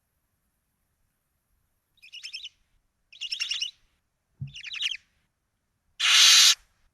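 Barn owls in the nest box: three short bursts of fast, high twittering, then a loud harsh hiss about six seconds in. A soft low bump comes with the third burst.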